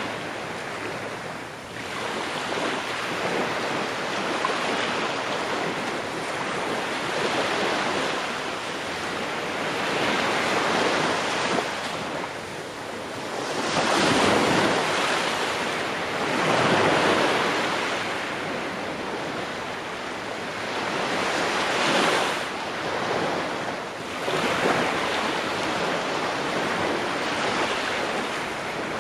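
Ocean waves breaking on a shore, a steady wash of surf that swells and ebbs every few seconds, with a few stronger breakers partway through.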